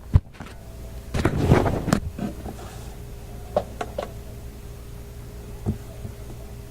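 Workbench handling sounds: a sharp knock at the start, a brief scraping rustle about a second in, then a few light clicks and taps, over a faint steady hum.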